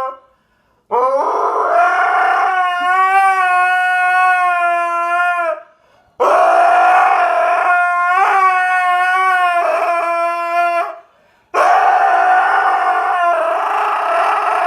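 A dog howling: three long howls of fairly steady pitch, each lasting four to five seconds, with short breaths between them.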